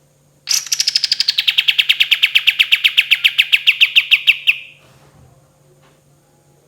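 Kapas tembak songbird giving one long rolling trill of rapid, evenly spaced notes, about nine or ten a second. The trill lasts about four seconds, sinking a little in pitch and growing louder before it stops suddenly.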